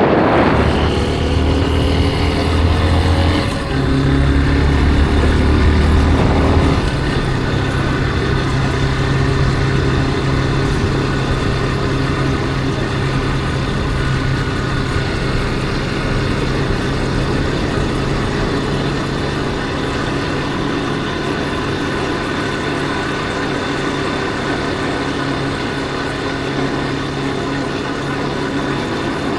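Yamaha Factor 150's single-cylinder four-stroke engine running under way, heard from on board over wind noise. The engine note changes twice in the first seven seconds, then holds steady while cruising.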